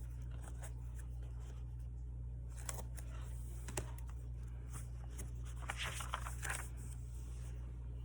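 Paper rustling and small taps and clicks as planner pages and stickers are handled, loudest about three seconds in and again around six seconds, over a steady low hum.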